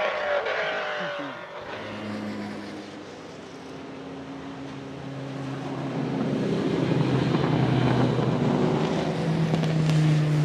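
A racing V8 at very high revs passes and fades away in the first second or so, its pitch dropping as it goes. After a quieter spell, a lower, steadier engine note builds up again through the second half.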